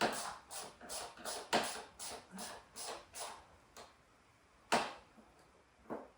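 Hand tools and metal parts clicking and knocking while a dirt bike is being dismantled: a quick run of short clicks, two or three a second, then two sharper single knocks near the end.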